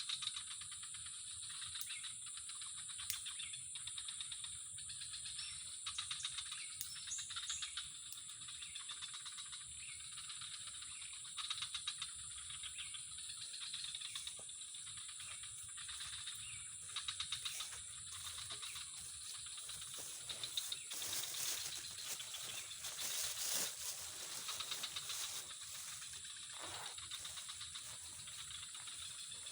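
Outdoor ambience: a steady high-pitched hiss with scattered faint clicks and rattles, a little busier about two-thirds of the way through.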